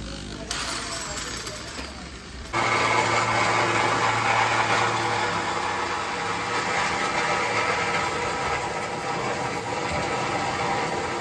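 A motor-driven machine switches on suddenly about two and a half seconds in and then runs steadily, with a low hum and a higher steady whine.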